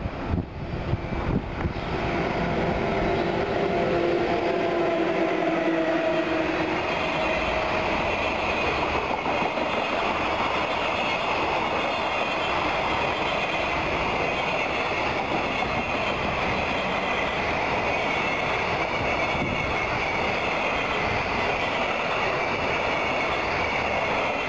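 EF81 electric locomotive passing close, then a long rake of container freight wagons rolling by: a steady rumble of steel wheels on rail. In the first seconds there are gusts and pitched tones as the locomotive goes past, and faint high tones ride on the wagon noise afterwards.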